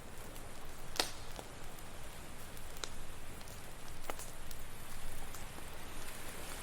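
Campfire crackling, with a few sharp pops (the loudest about a second in), over a steady wash of ocean waves.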